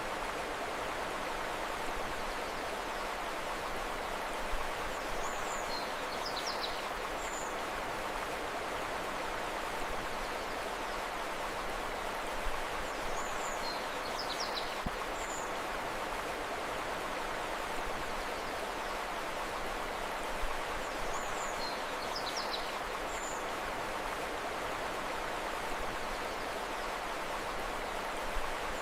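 Steady rushing of river water, with small clusters of short, high bird chirps coming back about every eight seconds.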